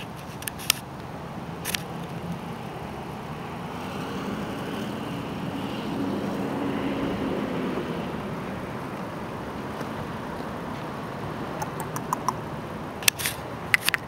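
Passenger train's running noise heard from inside the coach: a steady rumble that swells in the middle, with a few sharp clicks near the start and a cluster of them near the end.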